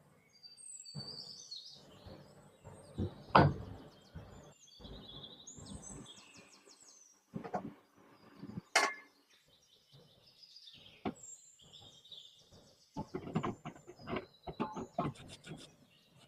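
Birds chirping in the background over scattered knocks, clicks and scraping from hand work on metal machine parts, with a quick run of rubbing or scraping strokes near the end.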